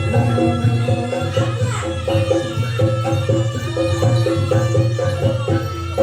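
Live Javanese gamelan accompaniment for a jaranan trance dance: drums pulse under a repeating melodic line of held notes that step up and down.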